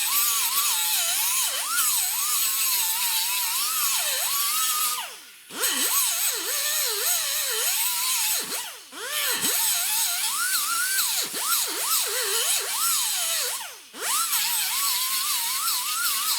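A power grinder grinding the steel of a patch panel for a fit, its high whine sagging in pitch each time it is pressed into the metal, over a constant gritty hiss. It runs in three long stretches with brief stops about 5 and 14 seconds in.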